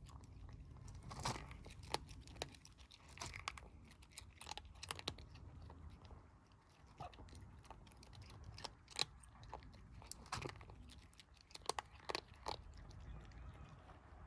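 Kittens chewing and crunching food: irregular crisp crunches, a few louder ones about nine and twelve seconds in.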